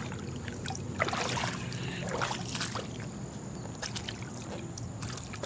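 Boots wading through shallow creek water and soft mud, with irregular sloshing splashes.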